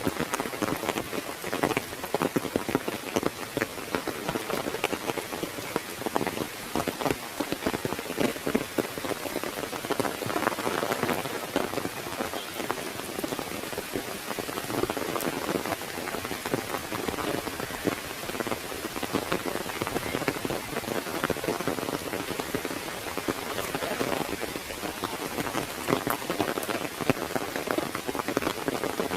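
Heavy rain falling on an umbrella overhead: a dense, steady patter of countless drops striking the fabric.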